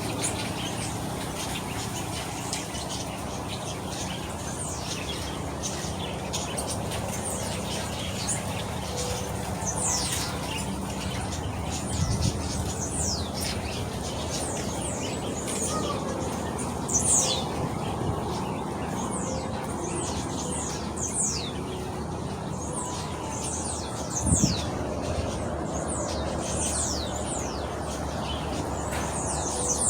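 Many birds chirping over one another in an aviary, a steady stream of quick, high, downward-sweeping chirps over constant background noise.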